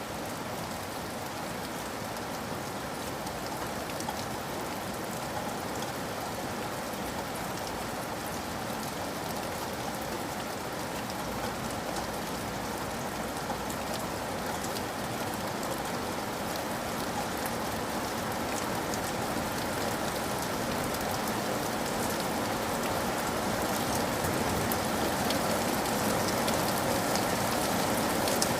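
Steady rain falling on hard surfaces, with scattered close drops, slowly getting louder.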